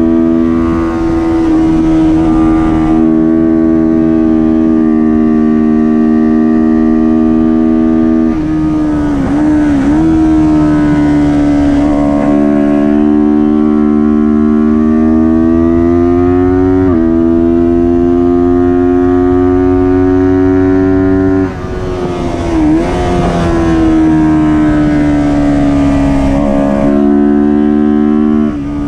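Kawasaki Ninja 400 parallel-twin engine at high revs under race load. The pitch climbs steadily through each gear and drops sharply at the upshifts, with a few brief dips and rises where it is braked and downshifted.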